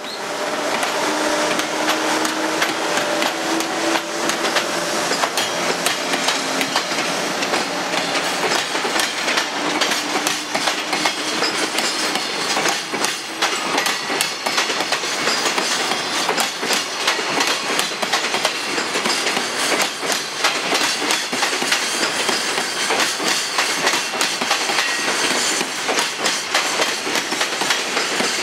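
Freight train wagons rolling past, wheels clacking over the rail joints in a fast run of clicks over a steady rumble, starting suddenly.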